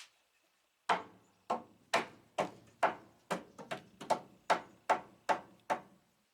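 Hammer striking wood: about a dozen sharp blows, a little over two a second, as when driving nails into framing.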